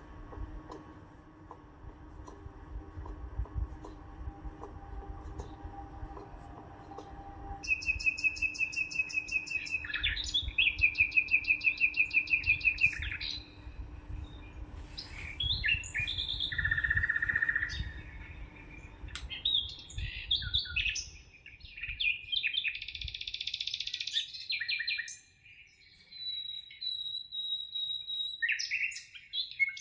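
Songbirds singing. A low rumble and faint steady hum at first give way, about eight seconds in, to loud rapid trills and varied chirps that carry on to the end.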